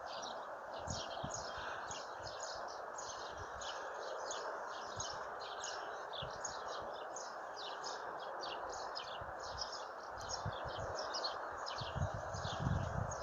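Many small birds chirping rapidly and without pause over a steady outdoor background rush, with a few low thumps near the end.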